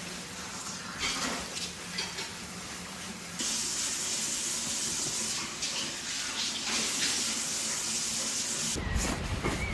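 Water running from a tap, growing louder a few seconds in. Near the end it gives way to a low rumbling sound.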